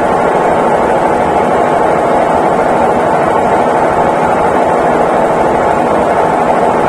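Consul Facilite 11 kg top-loading washing machine running with a loud, steady whir.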